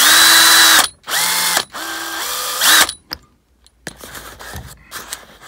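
Electric drill with a small bit drilling out a snapped, rusted seat bolt. The motor runs in three short bursts over about three seconds, its whine rising as each burst starts and dropping as it stops, followed by a few faint clicks.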